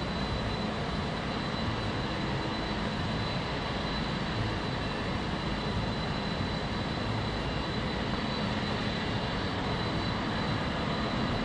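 Jet airliner engines running: a steady rushing noise with a thin high whine, swelling slightly near the end.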